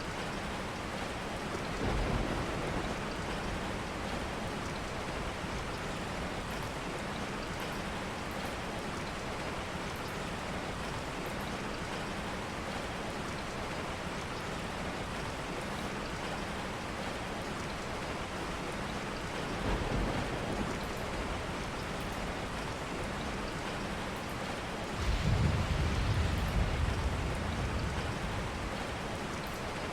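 Steady rainfall, a dense even hiss, with low rolls of distant thunder: a short one about two seconds in, another around twenty seconds, and a longer, louder one near the end.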